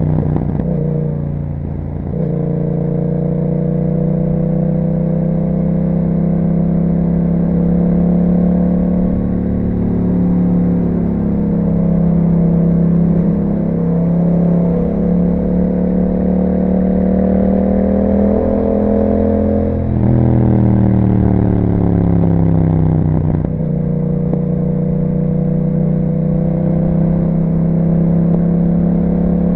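2021 Yamaha MT-07's 689 cc parallel-twin running through an Akrapovic exhaust while riding at a mostly steady engine speed. The engine note dips briefly about two seconds in, then falls in pitch around two-thirds of the way through and climbs back to a steady pull a few seconds later.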